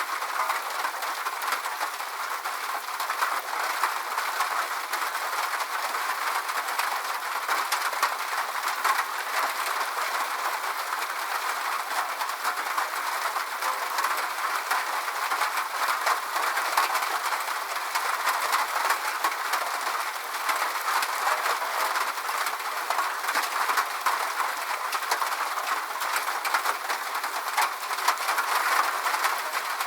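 Steady rain falling, a dense, even patter of drops with no lulls.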